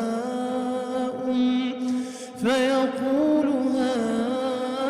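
A male reciter chanting the Quran in melodic tajweed style, drawing out long held vowels with slight ornamental turns in a strongly reverberant sound. Just past two seconds in, the voice pauses briefly for breath, then starts a new phrase.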